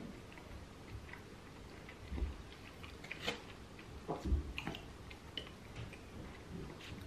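A person chewing and biting food, with scattered short clicks, the loudest about two, three and four seconds in.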